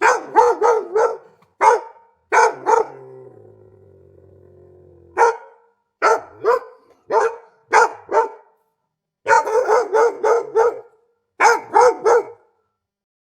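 A dog barking in quick runs of several barks, with short silent gaps between the runs. Some barks come singly. After one burst, about three seconds in, a low drawn-out sound trails off.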